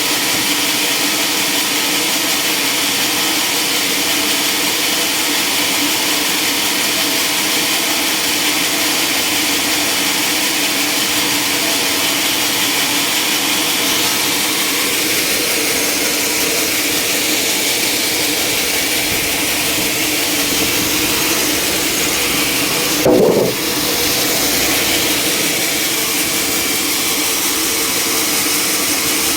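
Sawmill machinery running steadily and loudly, with a single sharp knock about two-thirds of the way through.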